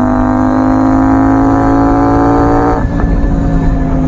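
CFMoto 800MT's 799cc parallel-twin engine pulling under throttle, its note rising slowly, then dropping in pitch near the end as a quickshifter upshift brings the revs down.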